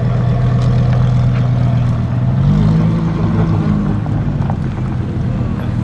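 Lamborghini Huracán STO's naturally aspirated V10 idling steadily, its note stepping up to a higher steady pitch about two and a half seconds in and dropping back down a second and a half later.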